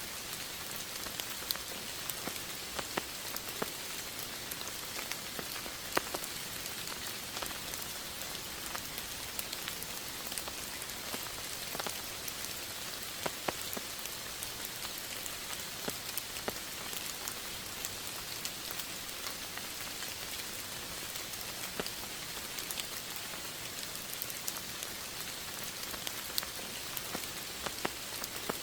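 Steady rain falling, an even hiss dotted with scattered sharp ticks of single drops hitting close by.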